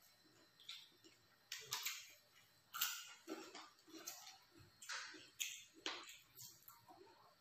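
Close mouth sounds of someone chewing beef satay: irregular wet smacks and clicks, the loudest about three seconds in.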